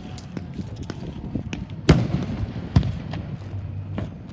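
Fireworks going off: a loud bang about two seconds in, another a second later and a softer one near the end, with scattered smaller pops between them.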